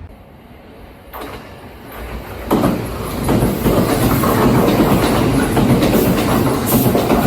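Kintetsu electric train passing at speed, coming in loud about two and a half seconds in, its wheels clacking over the rail joints.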